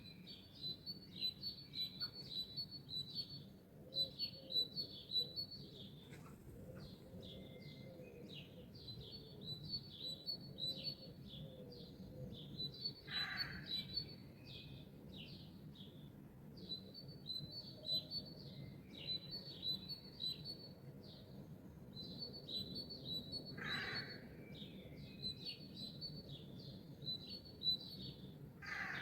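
Songbirds chirping and singing continuously in a dawn chorus of quick, high twittering phrases, with a lower, louder call breaking in twice, about thirteen and twenty-four seconds in, over a faint steady low rumble.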